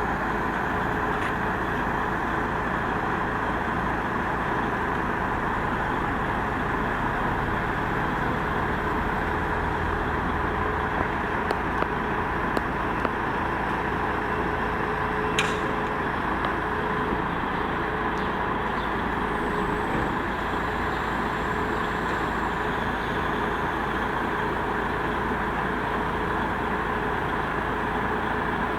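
Mobile crane's diesel engine running steadily under a lift, with a held whine and a few brief clicks about halfway through.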